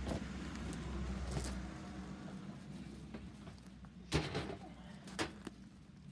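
A low rumble that dies away in the first two seconds, then two sharp knocks about a second apart and a fainter one just after.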